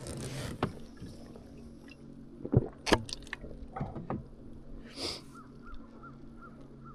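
Kayak sounds: a handful of sharp knocks and clunks on the hull around the middle, then a brief swish of water about five seconds in, over a steady low hum.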